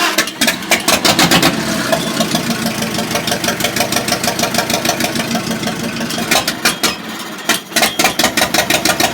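Farmall H tractor's four-cylinder engine running just after catching on the first try after 5 to 10 years unused, with a fast, even beat of firing pulses. It sags briefly about seven and a half seconds in, then picks up again.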